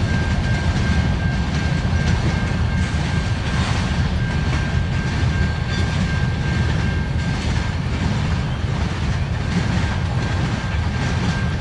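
Loaded CN freight train rolling past: a loud, steady rumble and clatter of wheels on the rails, with a thin steady high whine running through most of it.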